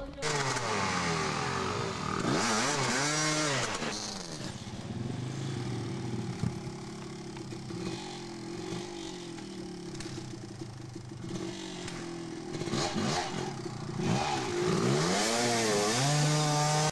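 Dirt bike engines revving hard in mud, the pitch sweeping up and down again and again as the throttle is worked. The loudest revving comes about two seconds in and again near the end.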